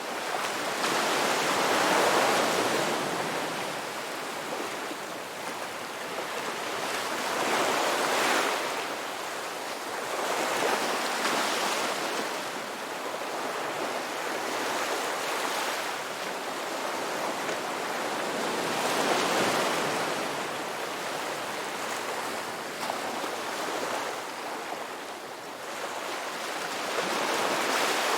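Ocean waves breaking and washing onto the shore, a steady rush of surf that swells and ebbs every few seconds as each wave comes in.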